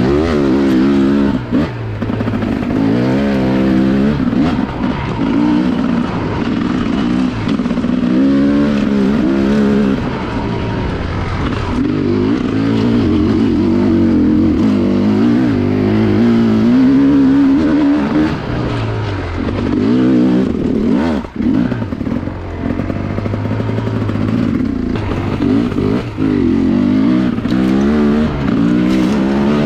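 Enduro dirt bike engine revving up and down repeatedly, with bursts of throttle as it is ridden over logs. The engine note dips briefly a little past 21 seconds, then picks up again.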